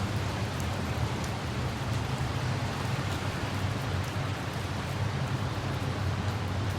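Steady rain falling, an even hiss with faint scattered drop ticks, over a low steady drone.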